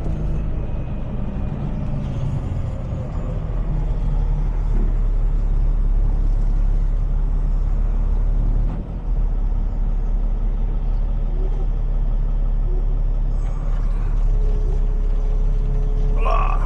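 Heavy tow truck's diesel engine running steadily under way, a low even drone.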